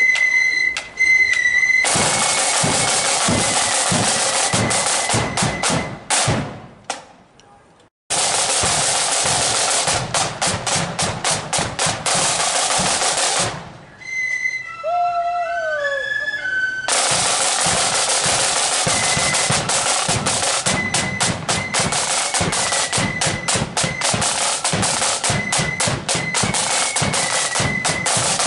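Marching flute band playing: high flutes over rattling snare drum rolls and bass drum strokes. The sound stops briefly twice, once dropping to silence and once leaving only the flutes.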